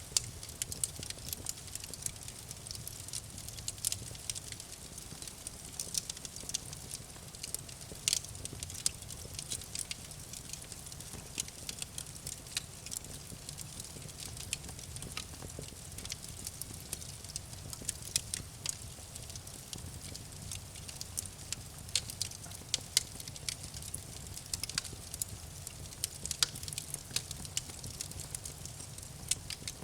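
Campfire burning, with many small irregular crackles and pops of burning wood over a steady low rumble of the flames.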